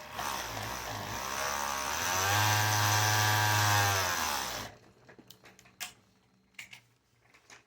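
A motor running for about four and a half seconds, its pitch rising and then falling, before it cuts off suddenly; a few light clicks and knocks follow.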